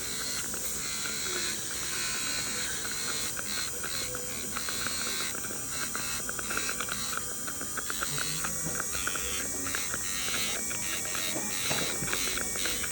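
Dental handpiece running, buzzing steadily while it polishes and reshapes a bonded resin restoration on a front tooth, with many short, irregular scratchy contacts as it touches the tooth.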